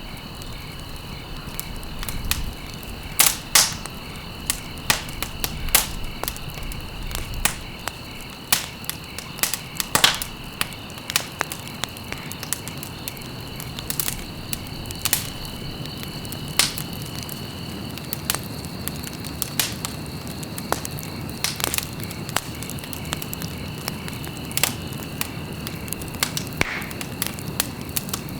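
Campfire burning, with irregular sharp crackles and pops from the wood over a steady low noise of the flames.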